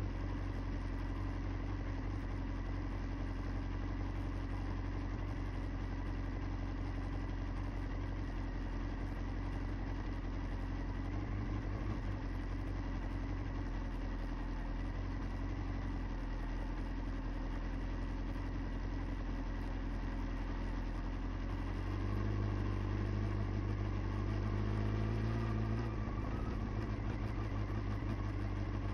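Motorcycle engine running steadily at low speed, heard from a camera on the bike. About three quarters of the way through, the engine note steps up and gets a little louder.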